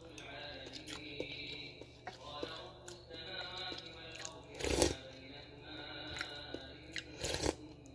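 A person eating close to the microphone: chewing and mouth noises on spoonfuls of rice, with small clicks and two louder noisy bursts, one about halfway through and one near the end, over faint background music.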